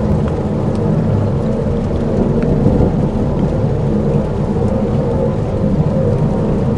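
Dark ambient soundscape: a deep, steady, thunder-like rumble with a rain-like hiss and a few faint scattered ticks.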